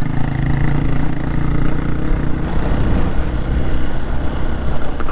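Hero XPulse 200 single-cylinder motorcycle engine running while riding over a rough, broken mountain road, with a steady rattling 'dada dada' drumming like riding in a train.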